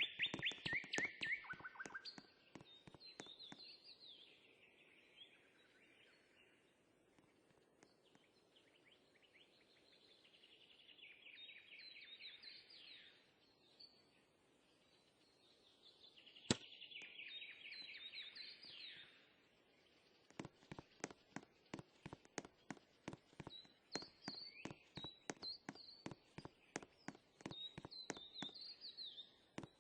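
Small birds singing faintly in short trilled phrases. A single sharp click comes about sixteen seconds in, and a run of irregular clicks fills the last third.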